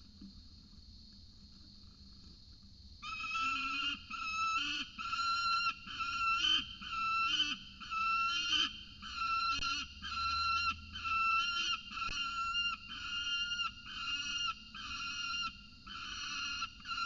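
Peregrine falcon calling over and over, a series of short harsh call notes about one a second, starting about three seconds in.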